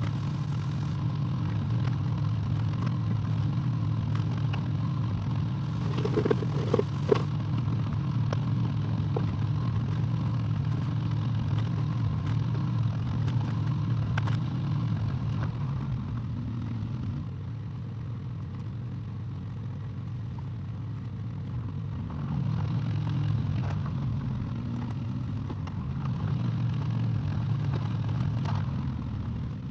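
Excavator engine running steadily under working load, with a few sharp metallic clanks about six to seven seconds in. The engine eases off a little past the middle and picks up again a few seconds later.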